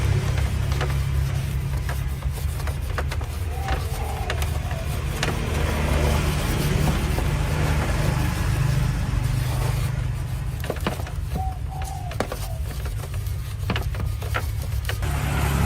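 A machine running with a steady low rumble, with scattered light clicks and knocks over it.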